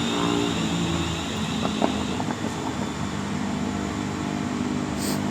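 Class 350 Desiro electric multiple unit moving slowly through the platform, its traction motors giving a steady hum. A higher tone fades out about two seconds in.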